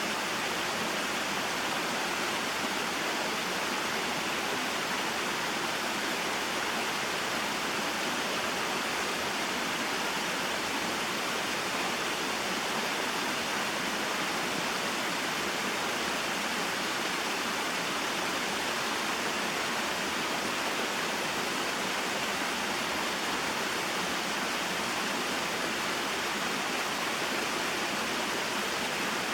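Small waterfall and mountain stream: water falling and flowing in a steady, even rush.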